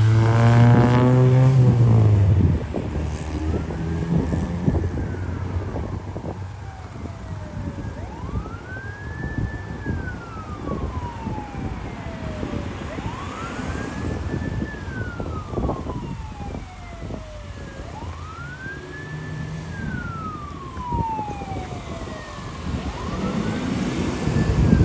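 Emergency vehicle siren on a wail: each cycle rises quickly, then glides slowly down, repeating about every five seconds over a low engine and road rumble.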